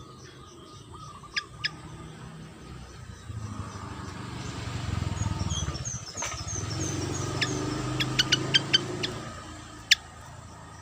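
A sikatan kipas (fantail) calling: sharp, very short high chip notes, single ones early and near the end and a quick run of them about eight seconds in, with a falling series of short high notes in between. A low rumble rises underneath through the middle.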